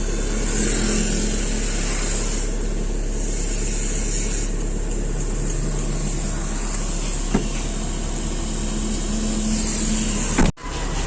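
Steady road and engine noise heard from inside a moving vehicle, with a single short click about seven seconds in and a brief drop-out near the end.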